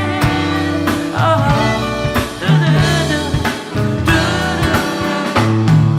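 Live band playing a slow groove, with drum hits, held bass notes and guitar under a singing voice.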